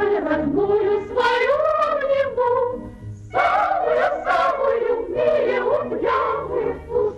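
Singing without recognisable words, likely a vocalised refrain of several voices, over instrumental accompaniment in an old film-song recording.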